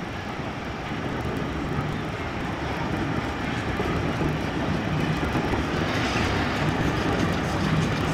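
Steady engine noise, growing slightly louder over the few seconds.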